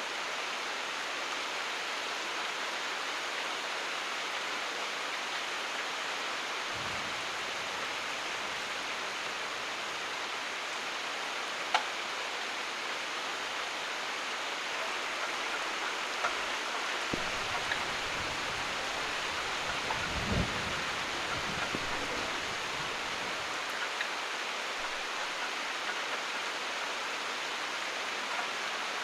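Steady rain falling, with low rumbles of thunder about 7 seconds in and again between about 17 and 22 seconds, the strongest near 20 seconds. A single sharp tick near 12 seconds.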